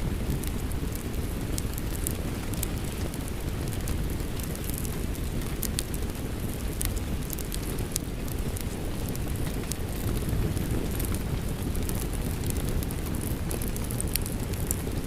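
Steady rain with a low rumble, over which a wood fire in a fireplace crackles and pops in frequent short, sharp snaps.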